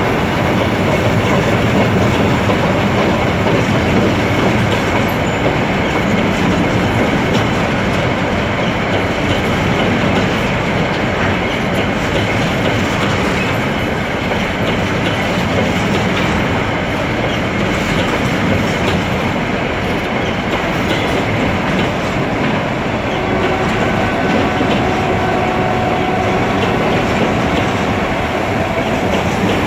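Metre-gauge freight wagons (boxcars and container flatcars) rolling past at close range. A steady rumble of wheels on rail is broken by frequent clicks as the wheels cross rail joints, under a faint, steady high squeal from the wheels. A few more thin squealing tones join in about two-thirds of the way through.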